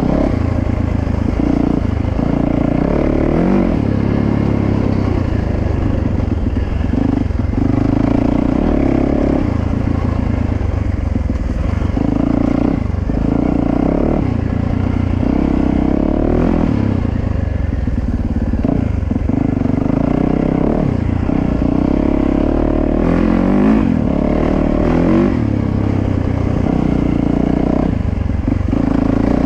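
Dirt bike engine being ridden hard through sand, its revs rising and falling over and over as the throttle is worked.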